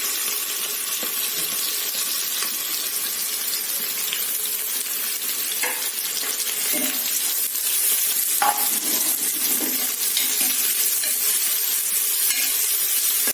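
Sliced onions frying in hot oil and ghee in a pressure cooker, a steady sizzle, with a few brief scrapes of a spoon stirring them.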